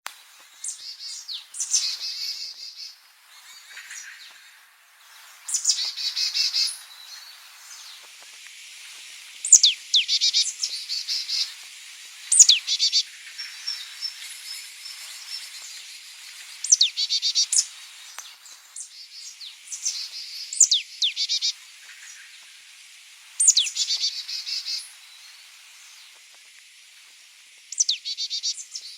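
A songbird singing the same short, high phrase over and over, one every three to four seconds. Each phrase opens with a quick falling note and runs into a rapid trill.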